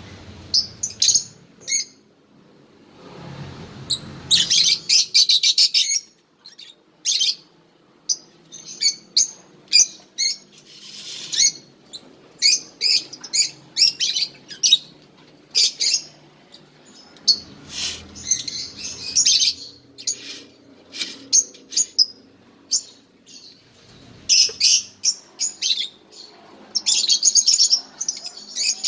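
A bird chirping: short, high-pitched chirps in irregular bursts, some running together into quick rattling runs, with brief pauses between.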